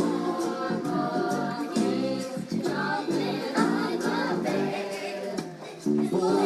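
A group of young children singing together, with voices alone carrying the tune. The singing dips briefly shortly before the end.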